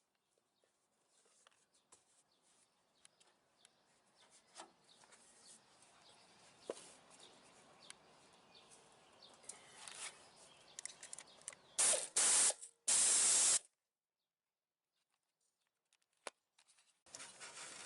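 Faint rustling and small clicks of hand work on the motor. Two loud hissing bursts about twelve and thirteen seconds in cut off sharply.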